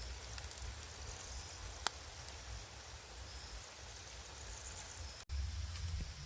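Faint outdoor ambience with a steady low rumble and a few scattered small clicks, one sharper click about two seconds in; the sound breaks off abruptly about five seconds in and resumes slightly louder.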